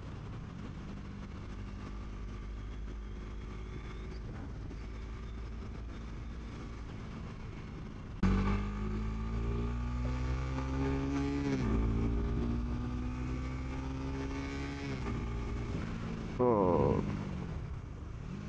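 Honda CBR150R's single-cylinder four-stroke engine under way. It runs steadily for about eight seconds, then gets suddenly louder as it pulls hard with the pitch climbing, drops in pitch at a gear change, and climbs again. A sharp, fast-rising high rev comes near the end.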